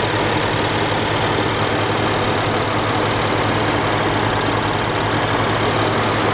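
The 5.0-litre V8 of a 2016 Lexus GS F idling steadily, heard close up in the open engine bay.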